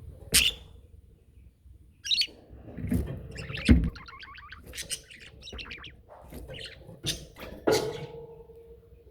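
Pet budgerigars chirping and chattering in short, scattered calls, with a quick warbling run about three seconds in. A dull thump comes just before the fourth second, and a sharp knock near the end leaves a brief ringing tone.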